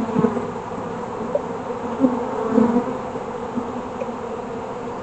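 Honeybees buzzing steadily around an opened hive, a low hum with a few brief louder swells about two seconds in.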